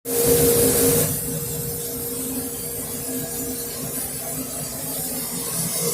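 Grinding machine running with a steady hum, a loud hiss over it in the first second that drops away about a second in.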